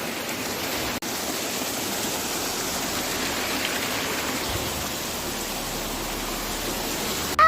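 Steady rush of falling water from a waterfall, with a brief dropout about a second in.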